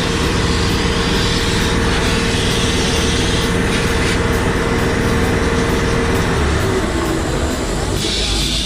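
Pressure washer running and spraying water onto a motorcycle, a loud, steady hiss with a constant motor whine that fades after about six seconds.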